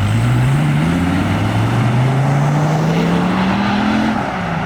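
A performance car engine accelerating hard, its pitch climbing steadily for about four seconds, then dropping back a little after four seconds in as the driver shifts or lifts off.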